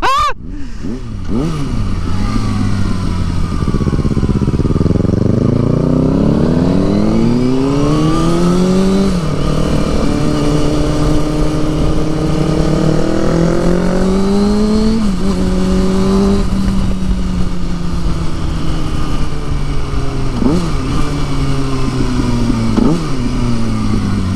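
Motorcycle engine accelerating through the gears. The pitch climbs and drops sharply at a shift about nine and fourteen seconds in, then holds steady. Near the end come several short rev blips.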